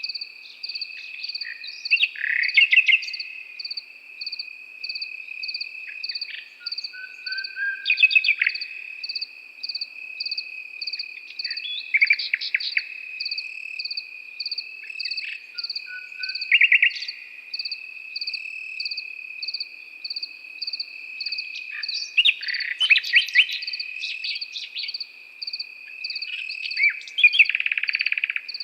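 Nightingale singing in short, varied phrases of rapid notes and whistles, one every few seconds, over crickets: one trilling steadily and another chirping at an even pulse.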